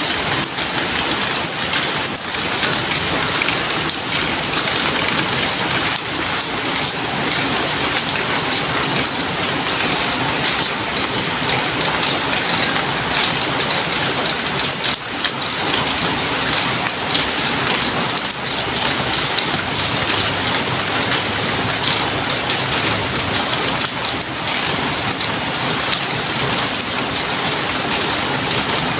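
Steady rain falling and pattering on surfaces: an even, unbroken hiss with many small drop impacts.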